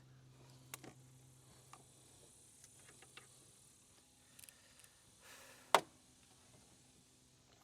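Scattered light clicks and handling noises of automotive wiring harness connectors being plugged in, with one sharp click a little before the end as a connector snaps home. A faint steady low hum sits underneath.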